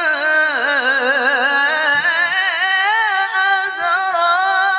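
Melodic Quran recitation (tajwid): a single voice holds one long, ornamented syllable, its pitch wavering up and down.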